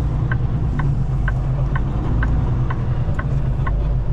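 A semi-truck's turn-signal relay ticking evenly, about twice a second, over the steady low rumble of the truck's diesel engine heard from inside the cab as it makes a turn.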